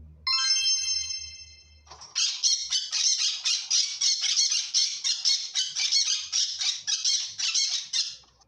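A short chime, then an animal's rapid high-pitched calls, about three a second for some six seconds, stopping shortly before the end.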